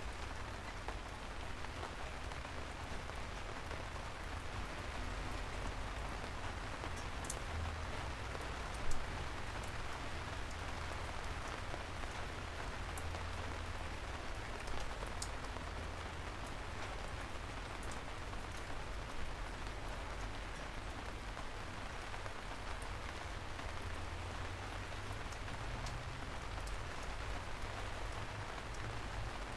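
Steady rain falling on a surface, a continuous patter with scattered individual drop ticks and a low rumble underneath, and one brief louder tap about nine seconds in.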